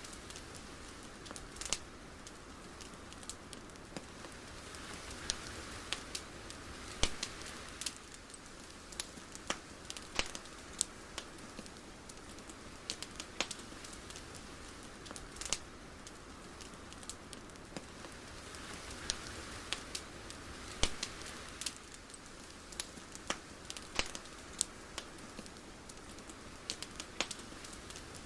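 Ambience of irregular crackles and snaps scattered over a soft steady hiss that swells and fades slowly, twice.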